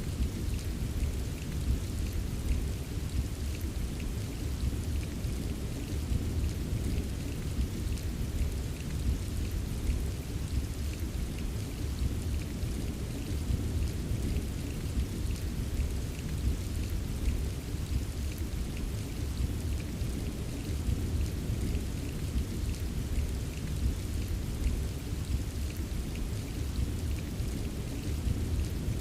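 Steady rain ambience: a continuous low, rumbling wash of rainfall with faint, scattered drop ticks on top, and no single loud event.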